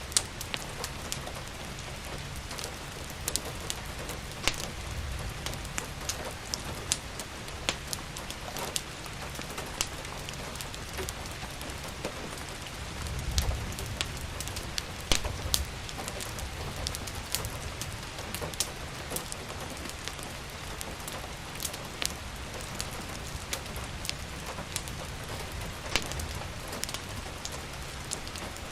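Steady rain falling, mixed with the sharp, irregular crackles and pops of a wood fire burning in a fireplace. A low rumble swells briefly about halfway through.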